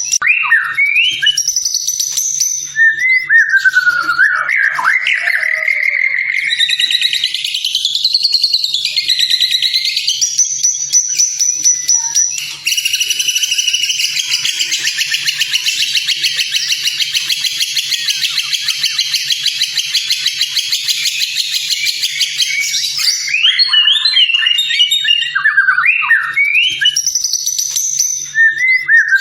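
White-rumped shama singing a varied song of loud whistled phrases that glide up and down, with a long rapid buzzy trill through the middle lasting about ten seconds before the whistled phrases resume.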